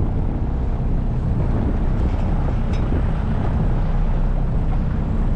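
Motorboat engine running steadily, heard from aboard as a constant low hum with the noise of the hull moving through water.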